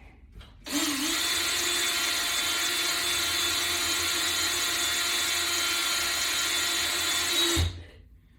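Power drill running at a steady speed for about seven seconds as it tightens a fastener into the wooden mount, starting about a second in and cutting off near the end.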